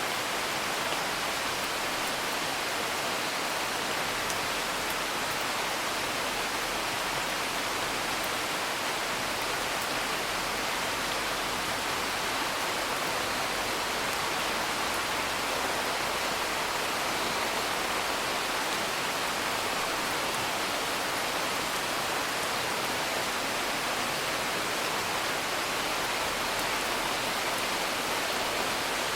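Steady rain falling, a dense even hiss that does not change, with a few faint crackles from a wood fire.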